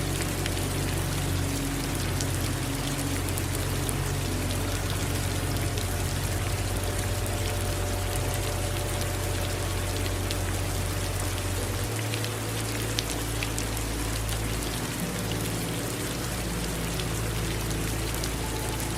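Steady rain falling, with many fine drop ticks over an even hiss and a low rumble underneath.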